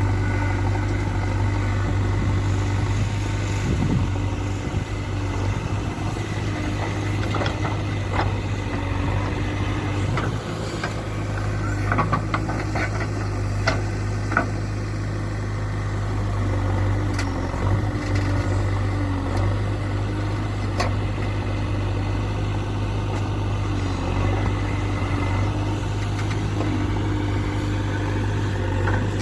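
Diesel engine of a JCB 3DX backhoe loader running steadily, with several sharp knocks clustered about halfway through.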